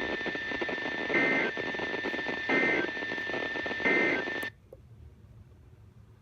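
Emergency Alert System end-of-message signal over a hissy radio broadcast: three short warbling data bursts about a second and a half apart, then the transmission cuts off suddenly about 4.5 seconds in.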